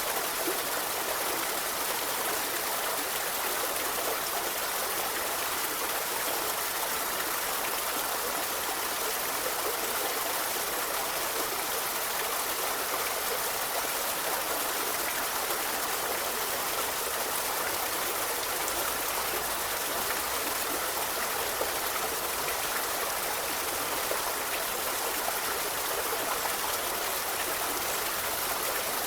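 Forest river flowing steadily: a constant rush and babble of running water.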